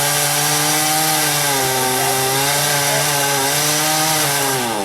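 Chainsaw running at high revs, its pitch dipping briefly in the middle as it cuts, then falling near the end as it slows back down.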